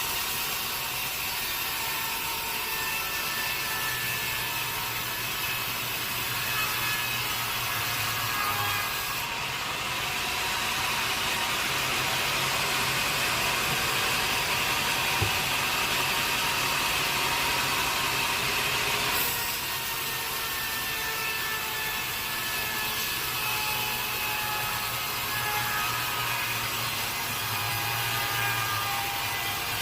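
Sawmill saw running through a teak log, a steady loud hiss with a thin whine, harsher for about ten seconds in the middle. A single short knock comes about halfway through.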